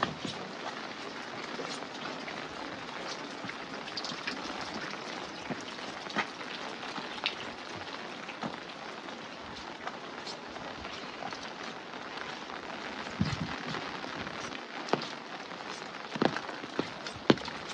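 Steady rain falling, a dense hiss with scattered louder drops landing close by, more of them near the end.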